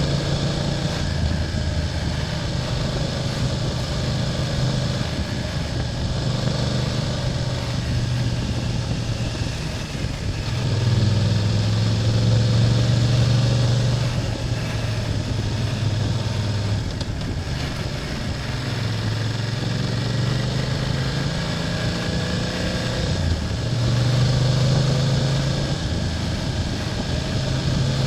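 BMW F800GS parallel-twin engine running under way, its note rising and falling with the throttle and swelling louder twice, about a third of the way in and again near the end.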